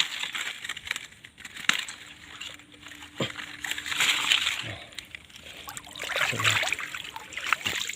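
Water sloshing and splashing in irregular surges as a fish trap full of catfish is handled in shallow floodwater, with a few sharp knocks.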